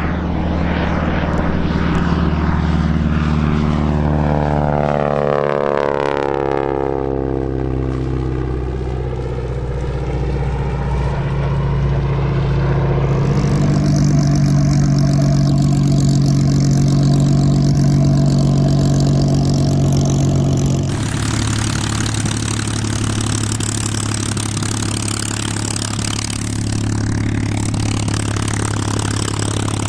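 A propeller aircraft's piston engine running loud and steady. For the first several seconds its overtones sweep downward as it moves past. About two-thirds in it cuts abruptly to a different, lower steady drone.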